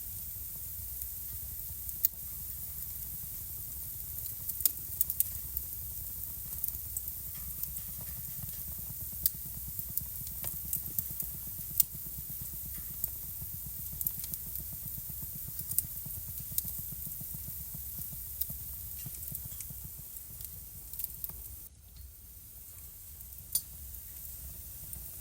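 Wood fire burning in a home fireplace: a steady hiss with irregular sharp crackles and pops, several a few seconds apart. The hiss dips briefly near the end.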